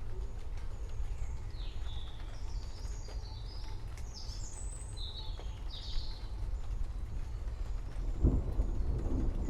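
Forest birds chirping in short high calls over a steady low rumble; about eight seconds in, a deeper rumble swells louder as distant thunder rolls in.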